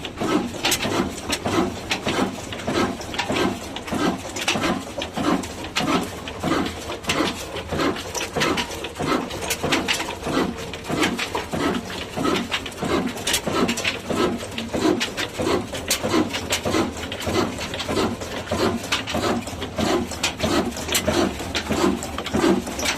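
Old diesel engine running slowly and steadily, its firing beats evenly spaced at about two to three a second, each with a sharp click.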